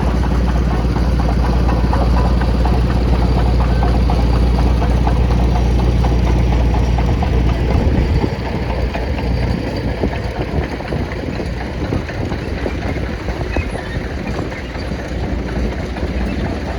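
Antique tractor engines running as the tractors drive past. A deep, steady engine note fades about eight seconds in, leaving a quieter, rougher-running engine.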